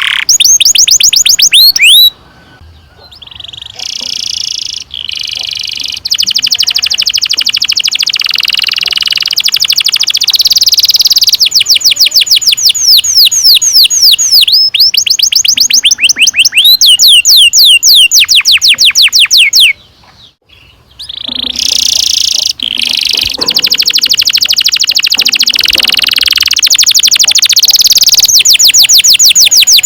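Domestic canary singing long rolling trills: fast runs of repeated falling notes, broken twice by short pauses.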